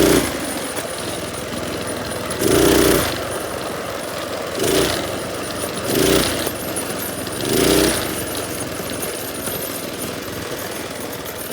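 Small minibike engine running, blipped five times in short bursts of throttle over the first eight seconds, then running steadily.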